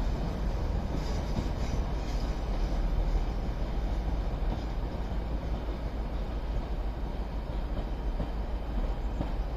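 A train moving along the track through a station: a steady low rumble of wheels and running gear.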